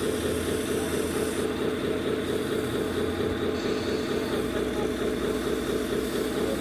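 Remote-control 1/14-scale truck running with a steady, engine-like drone, most likely its sound module's simulated diesel. A low hum shifts in pitch about four seconds in.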